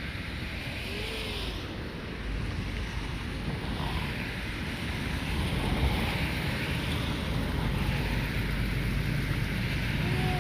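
Low, steady rumble of a passing river cargo ship's engine and wash, with wind on the microphone, growing gradually louder.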